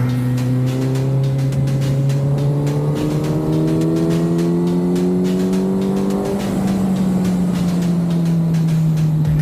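Kawasaki Z900 inline-four with an SC-Project aftermarket exhaust, pulling under acceleration: its note climbs steadily for about six seconds, then the rider rolls off and the revs settle and slowly fall.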